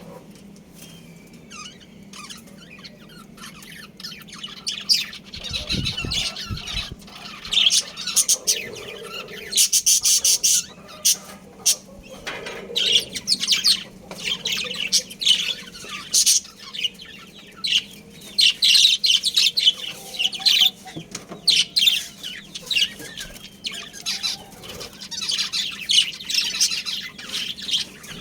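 Budgerigars chattering and chirping in quick, busy bursts that come and go, with a steady low hum underneath.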